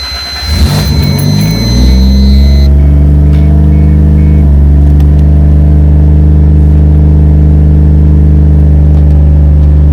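The Supra's swapped 1JZ-GTE VVT-i turbo straight-six starting up and settling about two seconds in into a steady idle. A high electronic beep repeats during the first few seconds.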